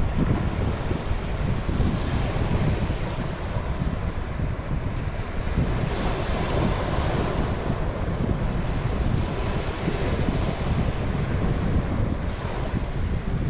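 Sea surf washing onto a beach in a continuous wash that swells and fades every few seconds, with wind rumbling on the microphone.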